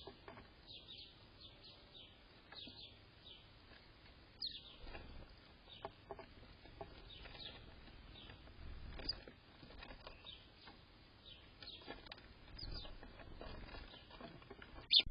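Small birds chirping: many short, high, downward-sliding chirps, several a second, with a few low bumps and a louder chirp at the very end.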